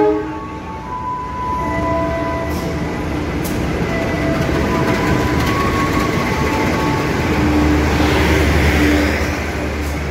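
Diesel-hauled local passenger train pulling in alongside the platform: the rumble of the locomotive and its wheels on the rails grows louder as it passes, with scattered brief squeals as it brakes. A deep hum swells near the end as the coaches roll by.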